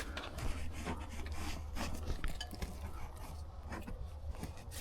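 Irregular scraping and rustling with many small knocks, over a steady low rumble.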